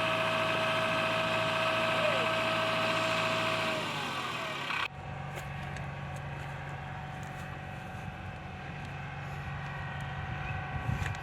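JCB 3DX backhoe loader's diesel engine running steadily with a steady whine, which winds down in pitch about four seconds in. After an abrupt change the engine runs on lower and quieter, like an idle.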